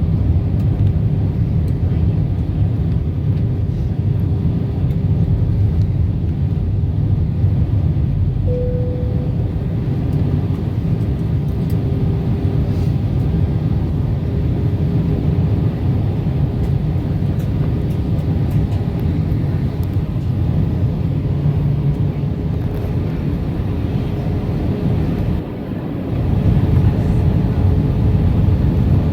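Steady low rumble of an Airbus A320 in flight heard from inside the cabin: engine and airflow noise with a faint steady hum. The noise dips briefly about 25 seconds in, then returns slightly louder.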